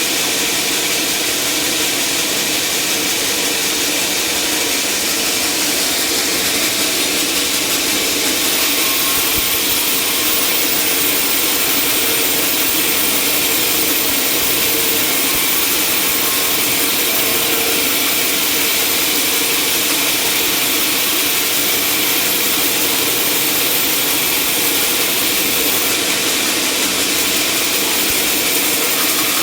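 Sawmill running steadily as it saws through timber, a continuous high hissing cut over the machine's engine.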